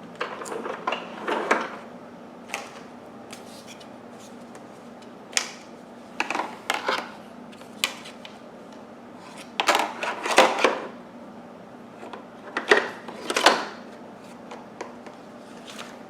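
Hard plastic vacuum attachment tools and the upright vacuum's plastic body clicking and knocking as the tools are handled and pushed into their storage clips, in several short clusters of rattles and knocks.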